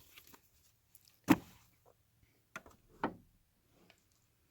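A few knocks of objects being handled and set down while unpacking: one sharp knock about a second and a half in, then two smaller ones near three seconds, with faint clicks between.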